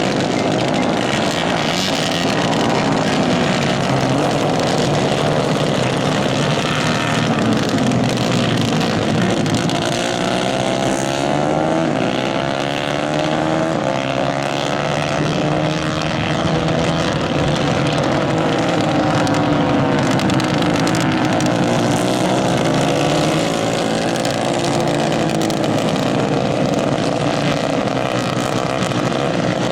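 Several 150 cc Kayak-class racing karts running on track, their engines revving up and down in varying, overlapping pitches.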